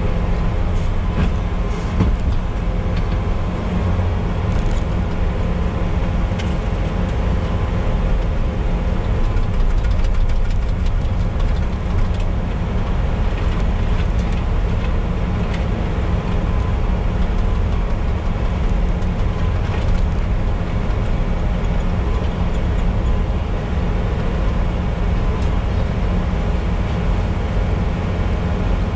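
Bobcat T595 compact track loader's diesel engine running steadily with its SB200 snowblower attachment, a constant low drone with a few faint ticks and rattles over it.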